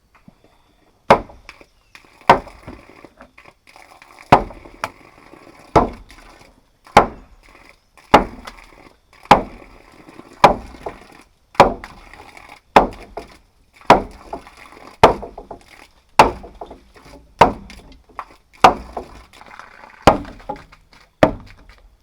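A steady series of sharp chopping strikes, about one a second, each followed by a short ring.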